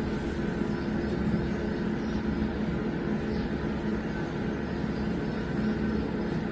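Steady mechanical hum with several held tones, unchanging throughout.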